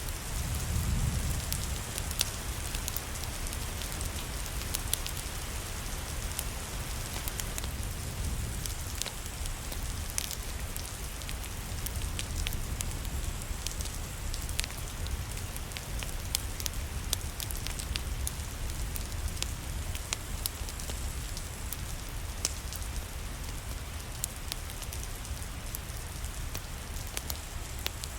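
Steady rain, with a low rumble underneath and frequent sharp crackles and pops from a wood fire burning in a fireplace.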